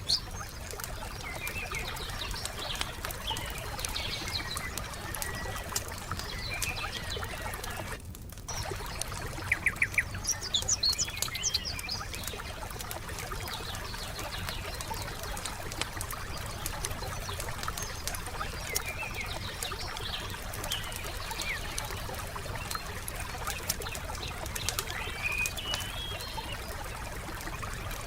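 Wood fire crackling with frequent small pops and a few louder snaps about ten seconds in, while songbirds chirp on and off.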